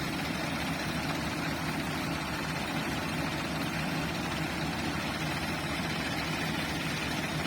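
Ford farm tractor's diesel engine running steadily at idle, with no revving.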